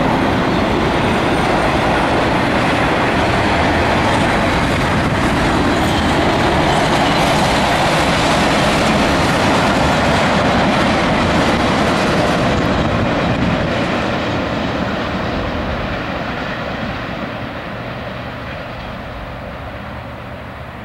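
CSX intermodal freight train cars rolling past on the rails, a steady noise of wheels on track that fades gradually over the second half.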